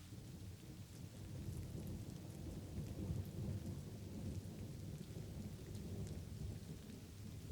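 Light rain falling with a low roll of thunder that builds about a second in, is loudest around the middle, and slowly fades.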